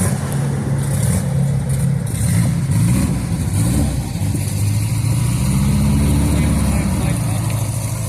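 Car engine running, its pitch rising and falling a couple of times as it is revved or pulls away.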